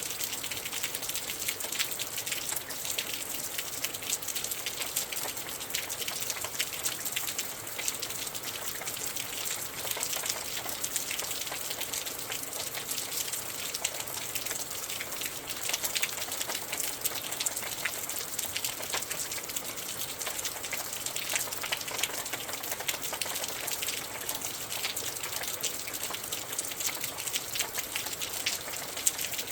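Steady rain falling outside a window, a dense, even patter of many small drops with close ones ticking through.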